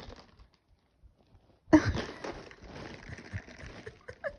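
Ice cubes sliding and rattling inside a plastic Gatorade bottle as it is tipped over. Quiet at first, then, just under two seconds in, a sudden loud rush of clattering and sliding that slowly fades.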